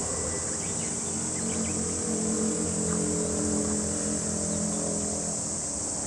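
Chorus of cicadas singing in summer, a steady high-pitched drone. Underneath it runs a lower engine hum from a passing vehicle, strongest in the middle.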